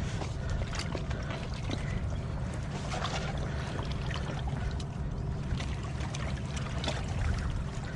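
Steady rush of moving canal water with a low rumble, with faint scattered clicks over it.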